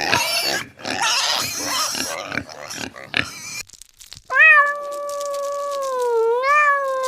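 A pig squealing in rough, noisy bursts, then after a short pause a cat giving one long, drawn-out meow that dips and rises in pitch.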